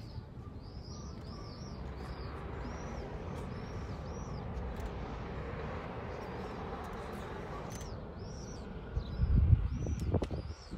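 A small bird calling outdoors, a short arching chirp repeated about two to three times a second in two runs, over a steady background hiss. Low rumbling buffets break in near the end.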